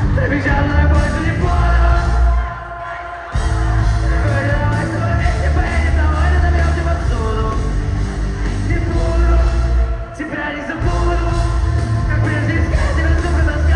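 Live rock band playing a song with sung vocals over heavy bass and guitars. The band drops out briefly about two seconds in and again near the ten-second mark before coming back in.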